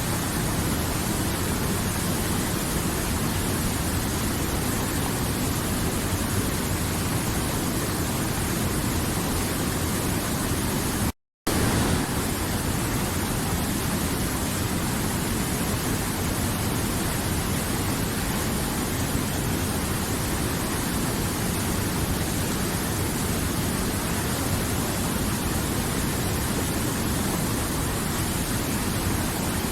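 River water flowing: a steady, even rush of noise that cuts out completely for a split second about eleven seconds in.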